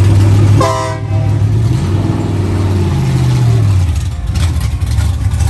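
Car engines running, one revving up and easing off about two seconds in, with a short horn-like toot just before it.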